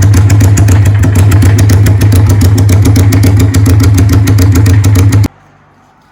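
Suzuki GS400's parallel-twin engine running loud and steady at idle, then cut off abruptly about five seconds in.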